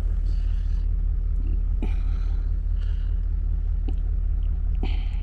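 Low, steady rumble of a stationary commuter train's engine idling before departure, with faint voices and a few light knocks.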